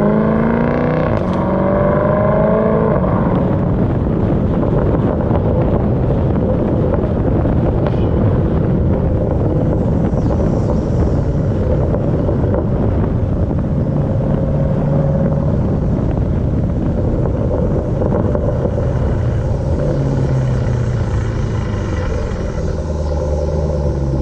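2018 Jeep Trackhawk's supercharged 6.2-litre V8 accelerating hard, its pitch rising for about three seconds, then a long loud rush of noise at speed. Near the end the engine note falls as it slows.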